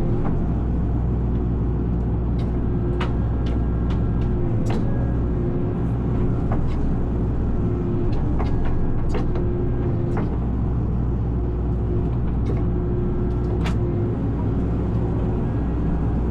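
Excavator engine running steadily, with scattered sharp cracks and snaps of willow branches being cut and broken.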